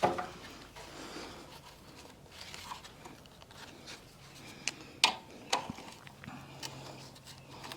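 A few sharp plastic clicks and taps as a stuck air filter cover on a small Briggs & Stratton engine is worked loose by hand, with a cluster of clicks about five seconds in.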